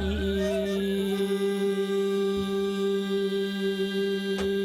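A male voice holding one long, steady note in slow Korean sijo singing, with a single light tap near the end.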